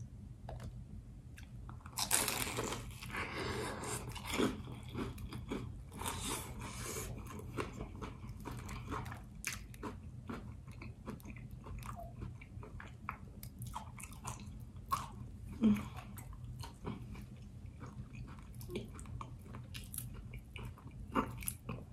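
A person biting into a crispy fried chicken pot pie egg roll, with a loud crunch about two seconds in, then chewing with many small crackles and mouth clicks.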